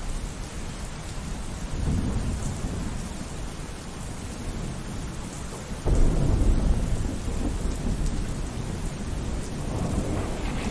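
Steady rainfall with rolling thunder; a heavier, deep rumble of thunder breaks in suddenly about halfway through, and another swells near the end.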